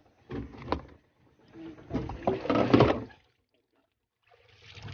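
Water splashing around a small outrigger boat, in short noisy bursts with a few sharp knocks, broken by a silent gap. A steady low rumble starts near the end.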